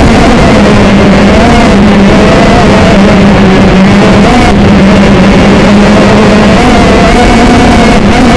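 TBS Gemini FPV quadcopter's electric motors and propellers running with a loud, steady whine whose pitch wavers slightly as the throttle shifts.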